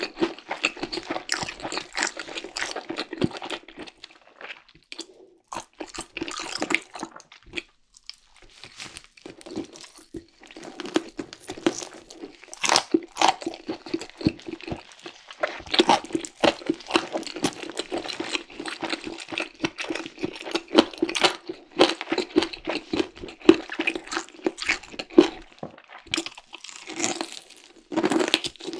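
Close-miked chewing and biting of fried chicken, with dense crunchy crackles from the crisp skin, broken by a couple of short pauses early on.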